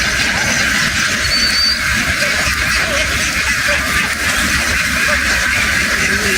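A huge flock of domestic ducks quacking all at once in a dense, unbroken chorus, with a low rumble underneath.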